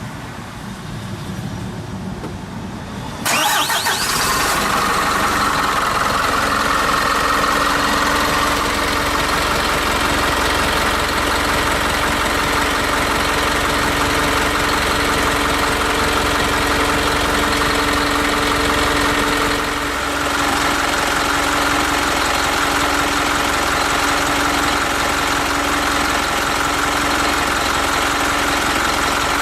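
Isuzu Forward truck's diesel engine being cranked by the starter, catching about three seconds in, then idling steadily; the idle note shifts slightly about two-thirds of the way through.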